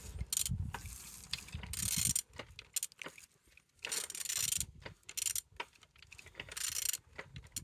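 Opel Z16XEP 1.6-litre four-cylinder engine being turned over by hand at the crankshaft with a wrench. Metallic clicking and rattling comes in several short bursts, a sign that the engine rotates freely and is not seized.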